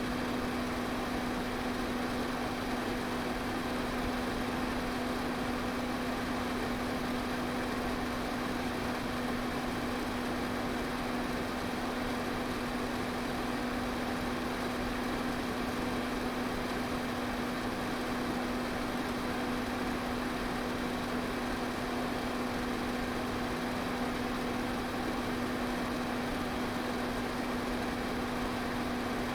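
Electric pedestal fan running steadily: an even rush of air with a constant low motor hum.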